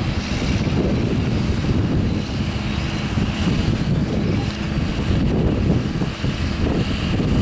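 John Deere 7R-230 tractor and Grimme EVO 290 twin-row potato harvester running steadily in the field, a constant low machine drone with a steady hum, with wind on the microphone.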